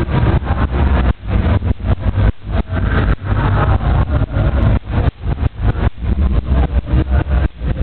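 Very loud, bass-heavy music played through a car's competition sound system, the deep bass dominating, with a choppy rhythm of short dropouts.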